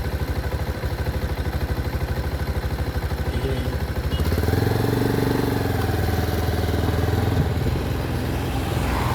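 Motor vehicle engine idling with a steady low throb; about four seconds in, a louder engine note builds and holds, as a vehicle moves off or passes close by.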